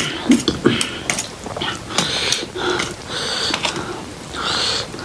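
Close-up eating sounds: instant ramen noodles being slurped in short hissing pulls and chewed, with frequent small mouth clicks.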